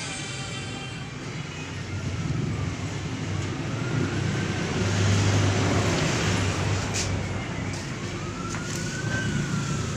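A siren wailing in slow rising and falling sweeps over steady traffic noise, with a vehicle passing about five seconds in.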